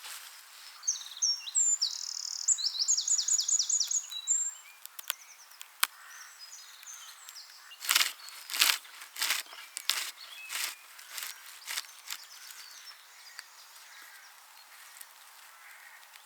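A songbird singing a fast run of high repeated notes, followed a few seconds later by a string of dry crackling rustles, about a dozen sharp crackles over four seconds, the loudest sounds here.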